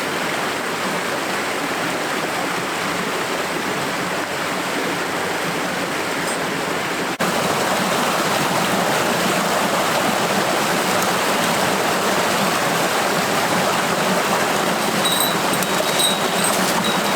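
Steady rush of a flowing stream, a little louder after an abrupt cut about seven seconds in, with a few faint high ticks near the end.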